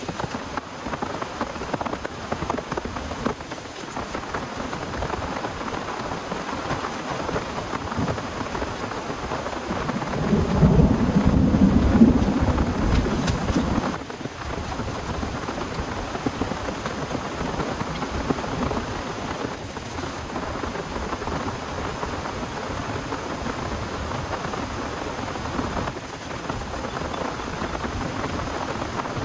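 Heavy rain falling steadily, with a low rumble of thunder swelling about a third of the way in and lasting several seconds before cutting off.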